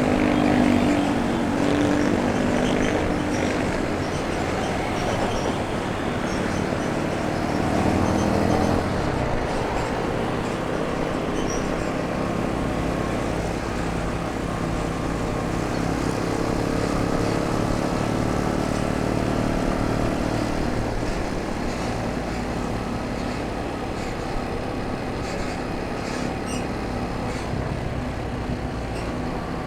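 Motorbike engine running on the move through street traffic, its pitch rising over the first several seconds and dropping near a third of the way in, over steady road noise.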